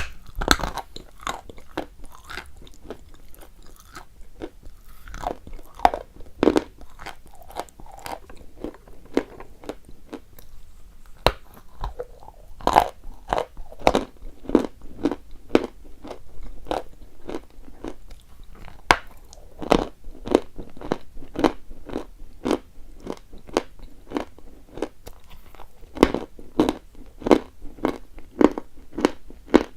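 Close-up crunching and chewing of chalk: a steady run of sharp, crackly bites and chews, about two to three a second.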